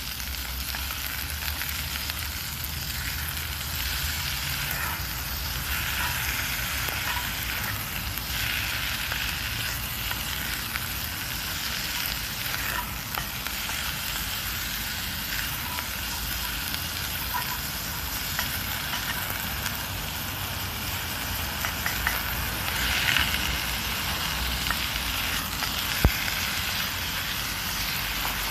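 Food sizzling and frying in a Dutch oven over a wood fire: a steady hiss with scattered small crackles, and one sharp click near the end.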